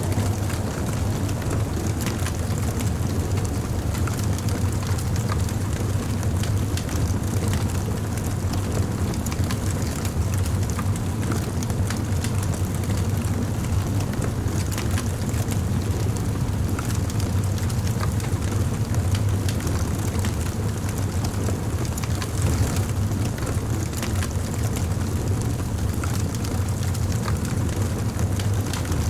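Wood fire burning steadily, with a constant low rumble and scattered small crackles and pops of burning wood.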